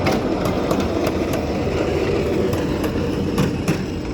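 Miniature park railroad train running, a steady engine sound with a run of sharp, irregularly spaced clicks.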